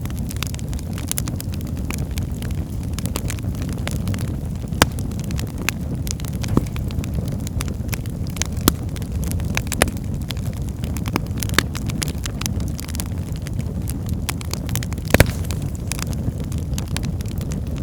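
Wood fire burning in a fireplace: a steady low rumble of the flames with irregular sharp crackles and pops, a few louder snaps about five seconds in and near fifteen seconds.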